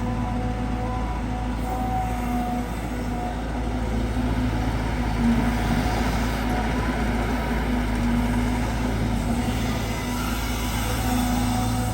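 Caterpillar 320GX excavator's four-cylinder Cat C4.4 diesel running steadily under working load, with the hydraulic pump whining. Both swell a little from about four seconds in as the machine digs.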